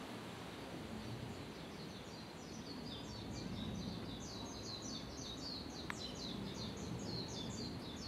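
A small songbird calling a rapid run of short, high chirps, sparse at first and then fast and continuous. Underneath is a steady low background hum, and a single sharp click comes about six seconds in.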